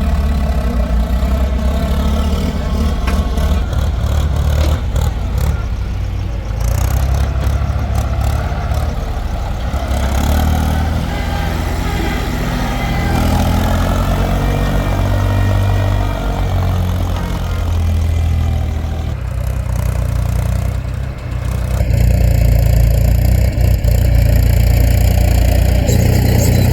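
Diesel engines of earthmoving machinery running steadily, with the engine note shifting as the machines work and growing louder about 22 seconds in.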